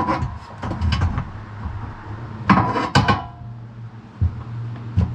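Sharp metal-on-metal and wood clanks and knocks as a heavy log is shifted on the steel bed of a Woodland Mills portable sawmill, several strikes with a brief ring, the loudest pair about two and a half to three seconds in, over a steady low hum.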